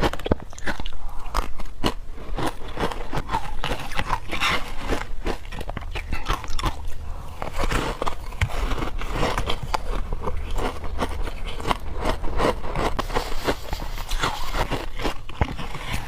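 Bites into wet, frozen matcha ice, with repeated crisp crunches and crackles coming irregularly and close together.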